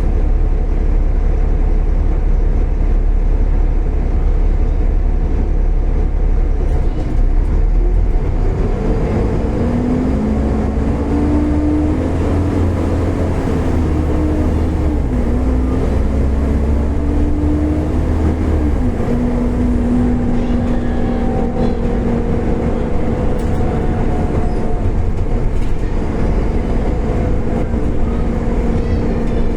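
Volvo B7TL double-decker bus engine running under way with a heavy low rumble. About a third of the way in, a whine starts and rises in steps as the bus pulls through the gears, dropping twice at the gear changes, then settles to a steady hum.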